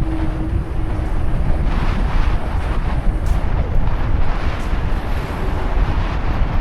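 Wind buffeting the camera microphone on a moving bicycle: a steady, loud, low rumble with the hiss of air and rolling noise over it.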